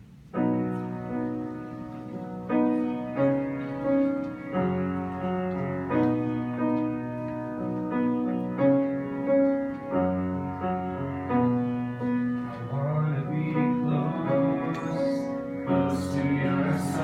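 Piano or keyboard starts playing a slow worship-song introduction about half a second in, with held chords changing every second or two. Singing voices join in near the end.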